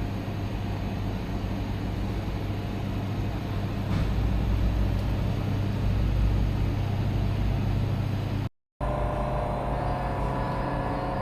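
Steady low mechanical hum with a low rumble, briefly cut off near the end and then continuing with a higher steady tone added.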